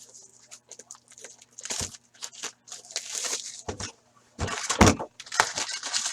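Plastic wrapping on a box of Upper Deck hockey cards and its packs crinkling and tearing as they are pulled open by hand, in quick irregular crackles.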